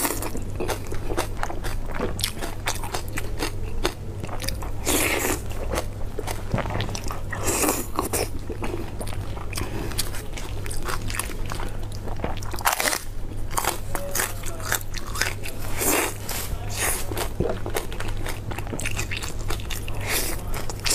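Close-miked mouth sounds of a person biting and chewing braised pork, with many small irregular clicks and short bursts.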